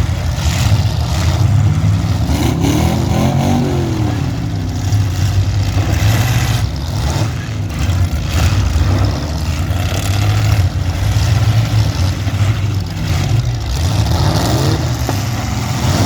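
Demolition derby cars' engines revving hard, their pitch rising and falling, with repeated sharp crunching impacts as the cars hit one another.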